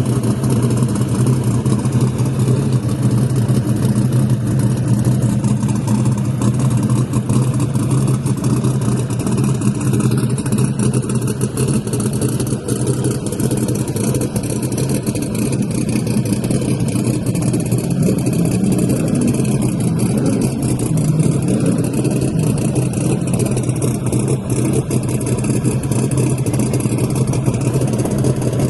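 Drag race car engine idling steadily and loudly, with small changes in pitch but no launch or full-throttle pass.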